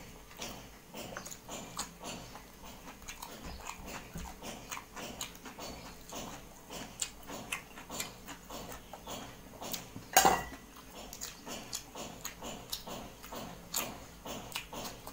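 Close-miked eating of chicken curry: wet chewing and lip-smacking in irregular short clicks, with one louder, sharper mouth sound about ten seconds in.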